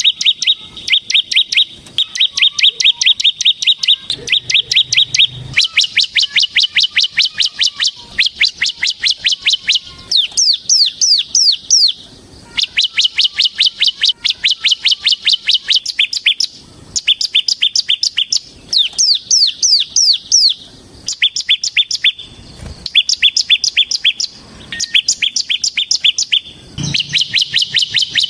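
Bar-winged prinia (ciblek) singing a long, rapid trilling song: fast runs of short, high repeated notes, about ten a second, in phrases of one to two seconds broken by brief pauses, with a few runs of sharper down-slurred notes.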